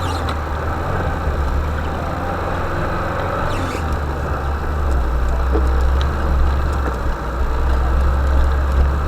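Vehicle engine running with a steady low drone, growing slightly louder about halfway through.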